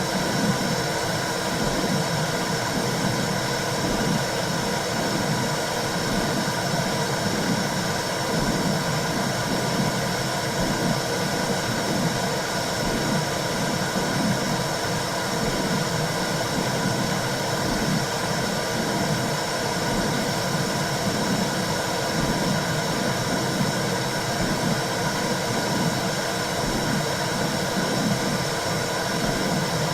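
Womb sound for calming a newborn: a steady low whooshing noise with a soft rhythmic pulse beating through it.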